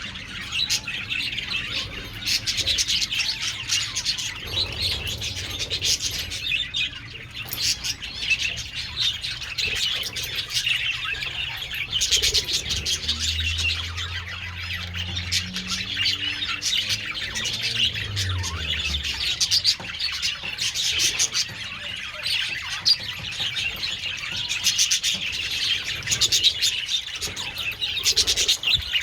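A flock of budgerigars chattering and chirping continuously in a dense, overlapping mix of short calls. A low rumble passes underneath in the middle.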